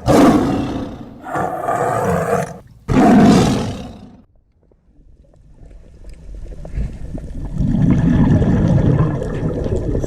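A large wild animal roaring: three loud calls in the first four seconds, then after a short pause a longer, lower call that swells near the end.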